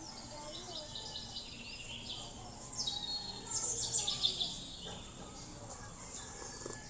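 Small birds chirping and twittering over a steady background hum, with a louder flurry of calls about three to four and a half seconds in.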